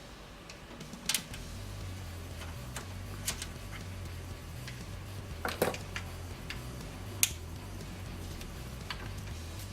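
Low steady hum of a freshly assembled desktop PC running with its fans spinning, with a handful of sharp clicks and knocks from hands working on the case, the loudest a quick double knock about halfway through.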